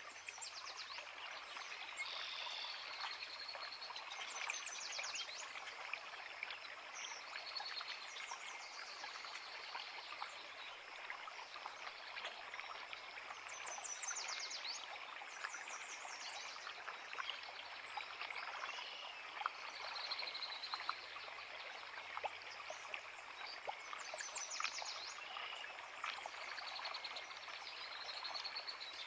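Creek water flowing steadily, with birds singing over it: short high trilling phrases every few seconds, alternating with clear whistled notes.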